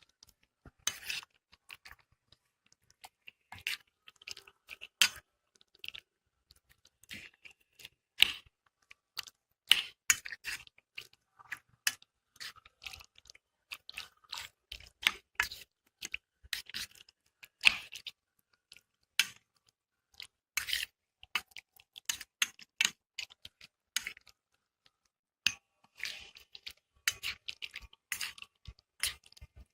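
Chicken pieces being mixed into a thick marinade of curd, cornflour, flour and spices: irregular wet squelches and clicks, a few to several a second, with short pauses.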